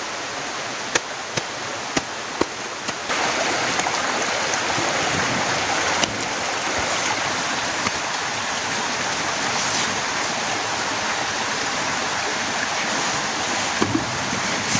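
Heavy rain falling hard and steadily, with sharp single drops knocking on a nearby surface during the first three seconds. About three seconds in, the rain suddenly becomes louder and denser.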